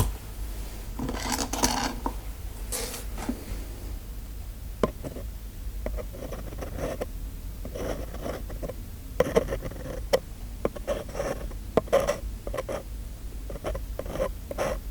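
Close-miked ASMR handling sounds of small tools: a couple of brief rasping scrapes in the first few seconds, then a run of light clicks and taps.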